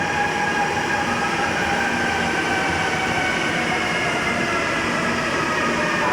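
MRT-3 metro train running, a continuous rumble with a steady high whine over it; from about two seconds in, a second whine rises gently in pitch.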